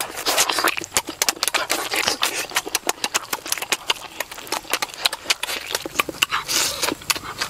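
Rapid wet chewing and lip-smacking of people eating chicken wings with their fingers, a dense run of quick clicks and smacks.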